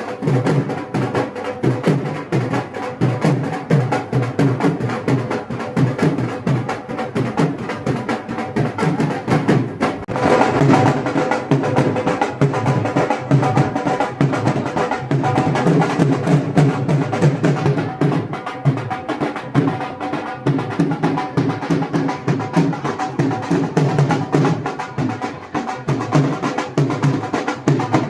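Dhol and nagada drums beating a fast, steady rhythm. The drumming grows fuller and a little louder about ten seconds in.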